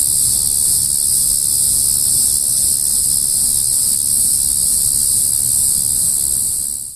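Crickets chirping in a steady, high-pitched continuous chorus.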